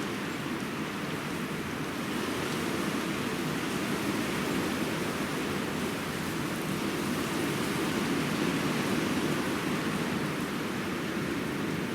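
Steady rushing noise with no distinct events, swelling slightly in the second half.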